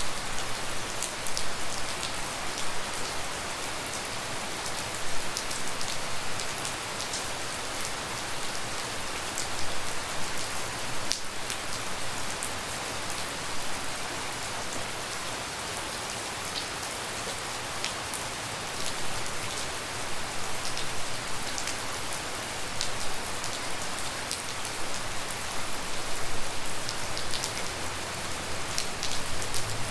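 Steady tropical rain falling, with many individual drops ticking close by.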